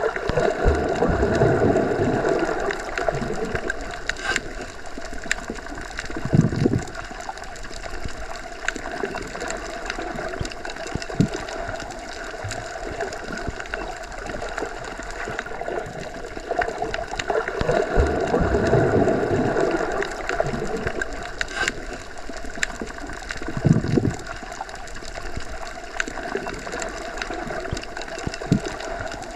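Underwater ambience: water surging in two slow swells that rise and fall about seventeen seconds apart, each followed a few seconds later by a dull knock. Small clicks are scattered over a steady hum.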